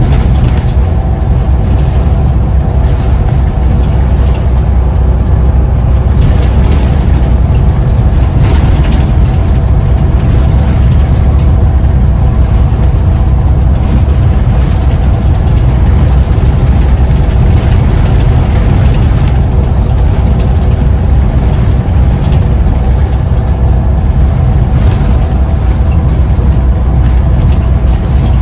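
Scania CN94UB bus's diesel engine running at a steady speed under way, with road and tyre noise.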